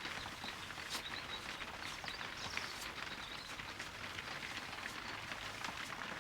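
Steady rain falling, with scattered drops ticking on nearby surfaces and a couple of louder clicks about one and two and a half seconds in.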